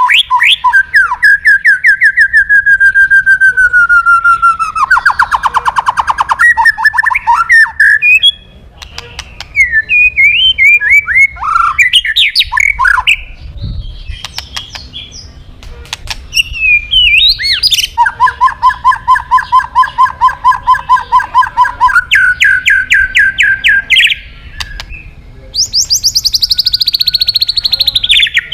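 White-rumped shama (murai batu) singing loudly, a varied song of long runs of fast repeated whistled notes and trills with short pauses between phrases.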